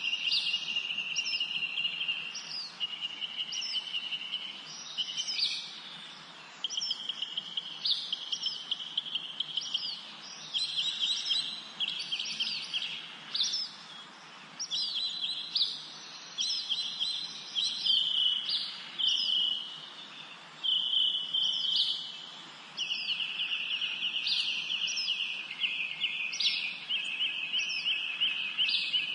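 Several songbirds singing: one sings a rapid trill of about one to two seconds over and over with short gaps, while others add short, high, falling chirps on top.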